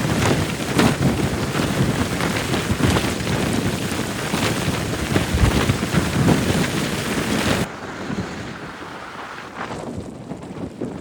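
Wind buffeting the microphone: a loud, rough, gusty rush. About two-thirds of the way in it drops abruptly to a much quieter rush that fades toward the end.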